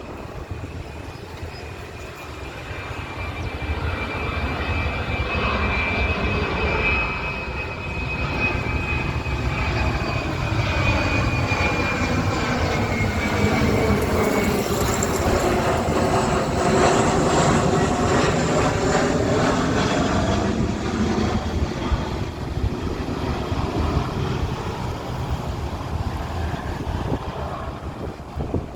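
Boeing 737-300F's CFM56-3 turbofan engines as the jet passes by: a high whine that slowly falls in pitch over the first half. The engine noise builds to a peak about halfway through and then fades.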